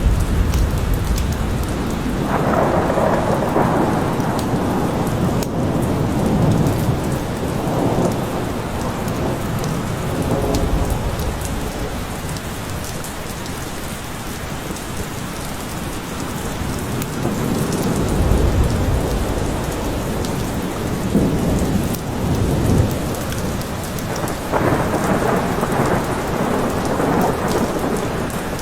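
Steady heavy rain with rolling thunder. Low rumbles swell in and out, heaviest right at the start and about two-thirds of the way through.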